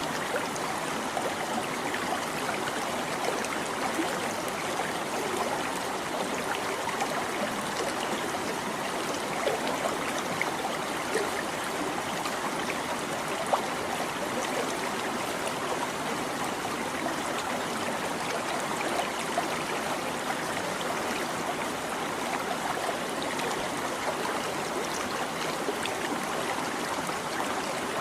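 A small stream babbling and trickling over stones, a steady rush of flowing water with little splashes and gurgles.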